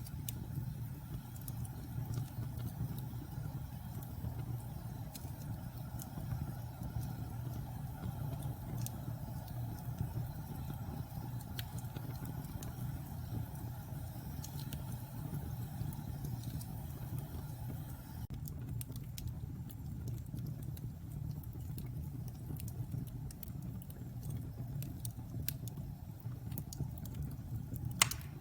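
Wood fire burning in a fireplace: a steady low rumble with scattered small crackles and one sharp pop near the end.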